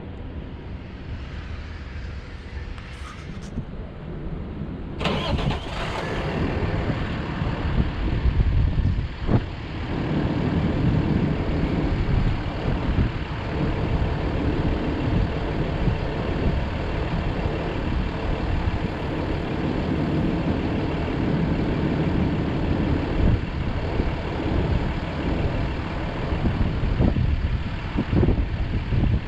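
A 2013 Ford F750 truck's engine starts about five seconds in, then runs steadily.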